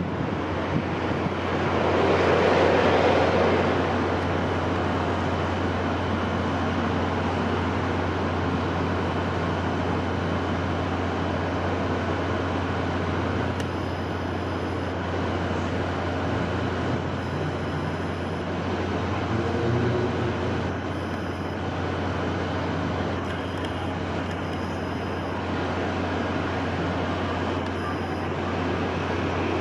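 Steady wind with a low rumble beneath a hiss, swelling in a gust about two to four seconds in.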